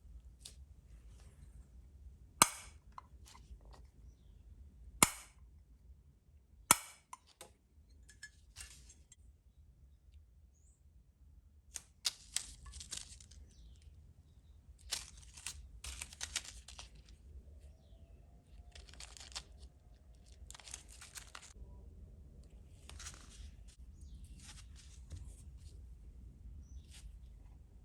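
Hands working on small model parts at a bench: three sharp snaps or clicks in the first seven seconds, then several stretches of rustling and handling noise.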